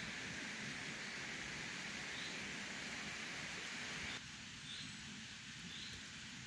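Steady outdoor ambient hiss with a few faint, short high chirps. The hiss drops abruptly about four seconds in.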